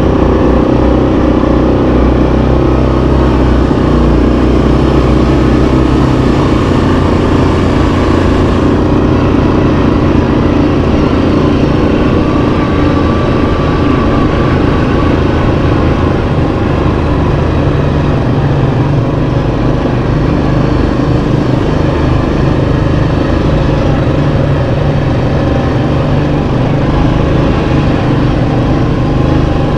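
Yamaha Kodiak 700 ATV's single-cylinder engine running steadily under way on a dirt trail, its note shifting a few times with the throttle.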